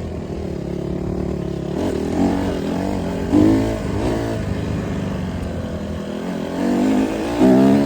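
Dirt bike engine running while riding, revving up twice, about three seconds in and again near the end.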